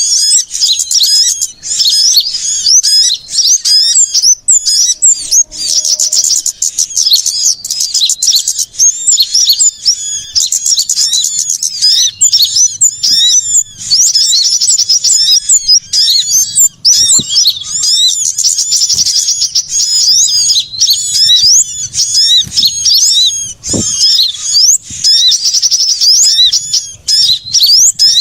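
Loud, dense chorus of many small songbirds chirping and trilling without a break, fast high calls overlapping: a bird-lure recording made to draw small birds in.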